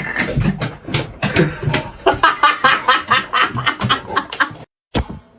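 A person laughing hard in a rapid string of short bursts, about four a second, ending abruptly; a single short click follows about five seconds in.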